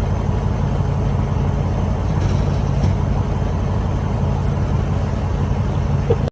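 Motor vehicle engine running, a steady low drone with a constant hum.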